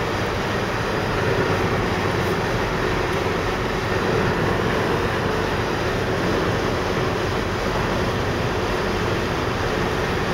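Steady road and wind noise inside a car cruising at about 65 mph on a highway, with no breaks or changes.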